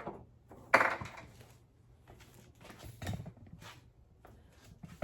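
Kitchen containers and cookware being handled: a sharp knock about a second in, then a few lighter taps and clicks.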